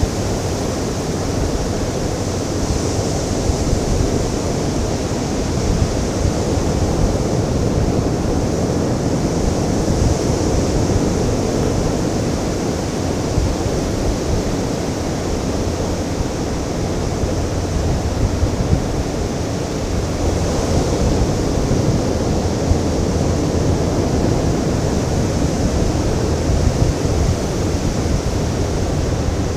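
Ocean surf washing onto a beach: a steady rush of waves, swelling gently every several seconds, over a low rumble.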